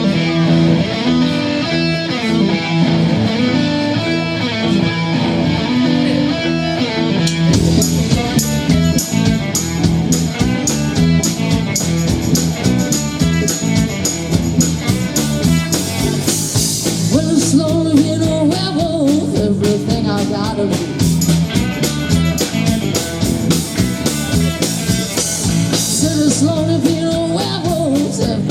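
Live rock band playing an instrumental passage: guitar and bass, with the drum kit and cymbals coming in about seven seconds in, and pitch-bending guitar lines further on.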